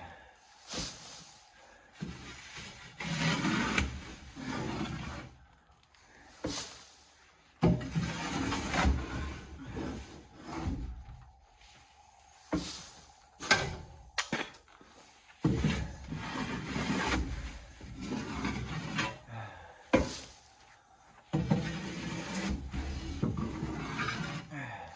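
Cardboard liner and soiled bedding being scraped and pulled out of a chick brooder box: irregular scraping and rustling with scattered sharp knocks.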